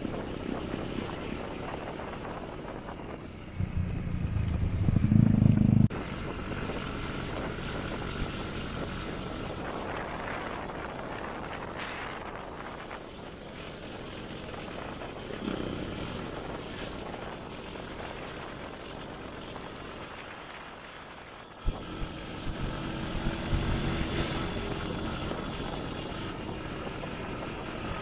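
1974 Triumph Trophy 500cc parallel-twin engine running while the motorcycle is ridden. It gets louder and deeper from about three and a half seconds in, drops off abruptly near six seconds, and comes back louder after a sharp click about three-quarters of the way through.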